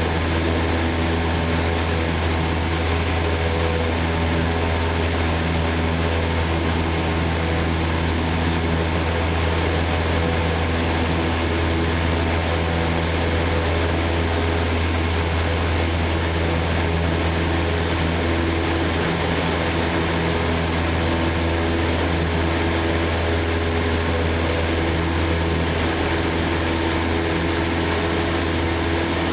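Citabria light plane's four-cylinder piston engine and propeller running at steady power, an even drone with a strong low hum that does not change.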